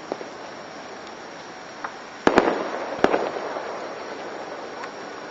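Aerial fireworks shells bursting: a faint pop or two, then two sharp bangs in quick succession a little past the middle and a third about a second later, each trailing off in a rolling rumble.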